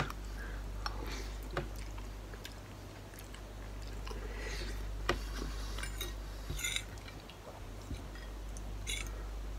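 A person quietly chewing a mouthful of instant ramen noodles, with a few short, light clicks scattered through. A steady low hum runs underneath.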